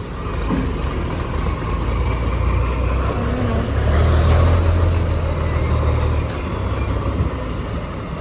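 Diesel engine of a container truck running close by, a low rumble that grows loudest around the middle and then eases off.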